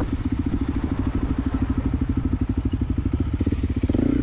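Honda CRF250L's 250 cc single-cylinder four-stroke engine running at low revs in a steady, rapid thump, picking up briefly near the end as the bike creeps around a log on loose ground.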